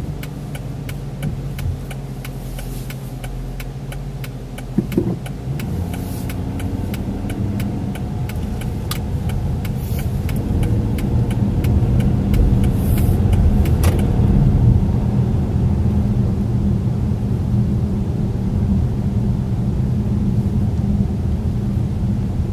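Car heard from inside the cabin: the turn-signal relay ticks steadily, about three ticks a second, during a left turn, then stops about two-thirds of the way through. The engine and road noise rise as the car pulls away and holds speed.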